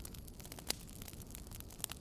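Wood fire crackling in a fireplace: scattered sharp pops and snaps, the loudest about two-thirds of a second in and another near the end, over a steady low rumble.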